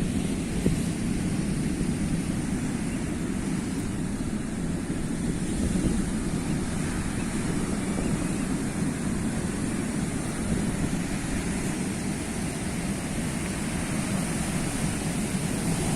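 Sea waves: a steady, low rushing wash of surf with no distinct breaks.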